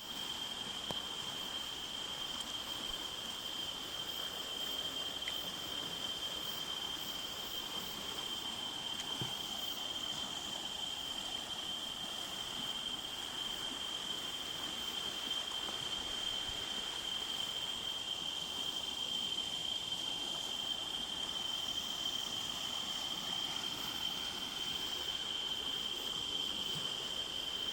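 Steady chorus of insects: a single unbroken high-pitched trill that never lets up, over a faint outdoor hiss.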